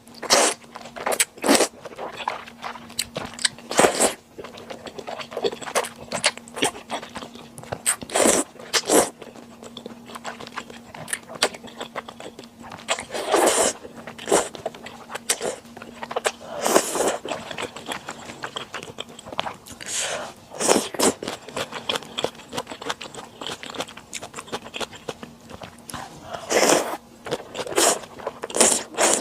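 Close-miked chewing and biting of sundae (Korean blood sausage) and chewy Chinese glass noodles: irregular wet mouth smacks and clicks, with a few louder bites.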